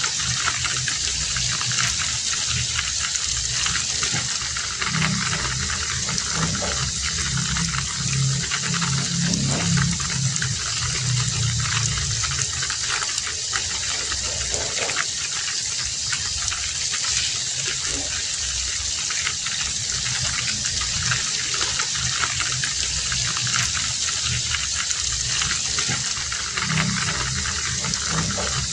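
Heavy rain falling steadily. A low sound swells underneath from about five to twelve seconds in, and again near the end.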